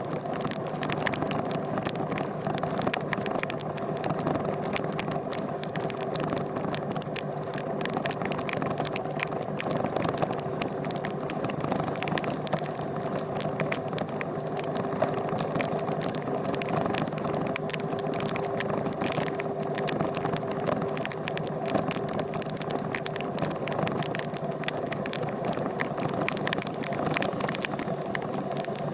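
A steady engine hum with a constant rattle and many small scattered ticks.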